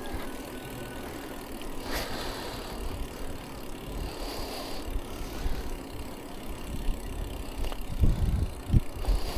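Steady road and wind noise heard from a bicycle while riding, with low buffeting from wind on the microphone growing stronger near the end.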